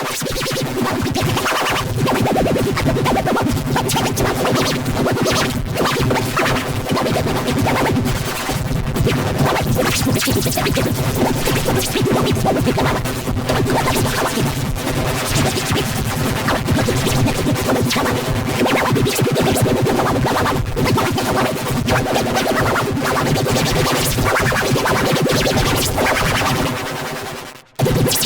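The detergent commercial's soundtrack, so heavily warped by editing effects that it comes out as dense, continuous electronic-sounding music with no words that can be made out. It cuts out briefly about half a second before the end.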